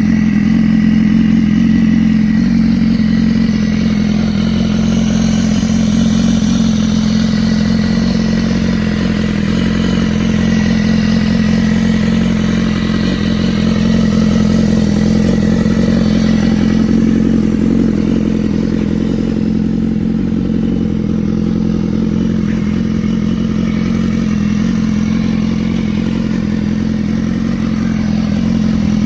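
2017 BMW S1000RR's inline-four engine idling steadily.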